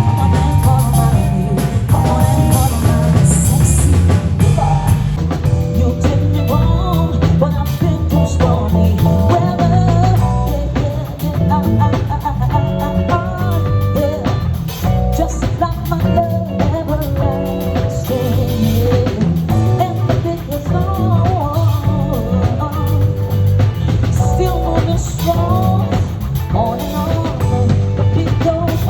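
Live band playing an upbeat groove: drum kit and bass underneath, with guitar and a melodic lead line on top.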